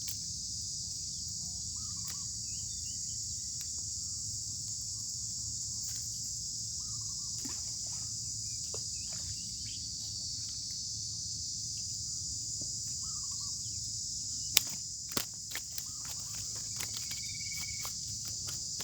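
A steady, high-pitched outdoor chorus of insects, with a few faint chirps over it. About three-quarters of the way through comes one sharp click, followed by a quick cluster of lighter clicks.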